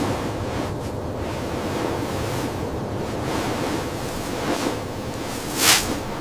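Wind rushing steadily with slight swells, and one short, louder whoosh about five and a half seconds in.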